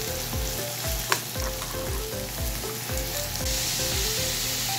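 Cubed raw tuna sizzling in butter in a hot non-stick frying pan while it is stirred with a metal spoon, searing as it starts to cook. There is one sharp click about a second in.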